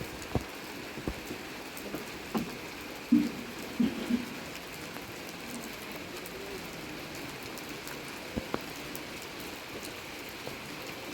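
Steady rain falling, with scattered louder drops landing on a surface, a few of them heavier knocks about three to four seconds in.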